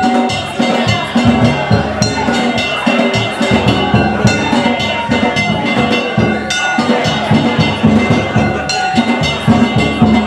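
Danjiri festival music: a large taiko drum beating with hand-struck metal gongs (kane) clanging in a fast, steady rhythm, the gongs' ringing tones sustained over the strikes.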